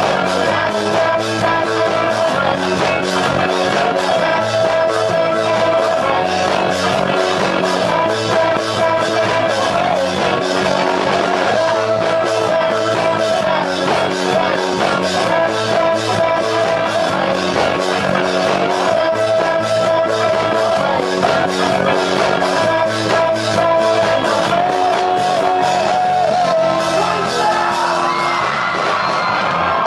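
Rock band playing live: a singer over electric guitar, bass, synthesizer and a steady drum beat.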